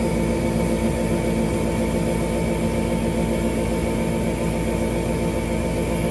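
Gas furnace running steadily just after start-up on a newly replaced igniter: an even, unbroken motor hum.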